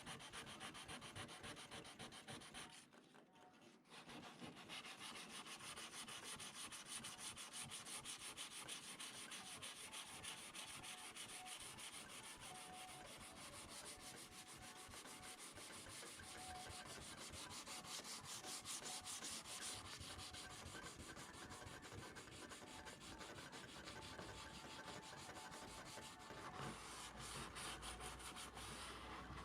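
Sanding on a fibreglass (FRP) bumper repair: a steady scratchy rubbing, faint, that breaks off briefly about three seconds in and then carries on.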